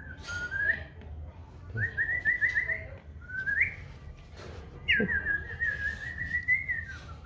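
A person whistling in short rising notes, then a rising slide, then one long held note from about five seconds in. A few faint clicks.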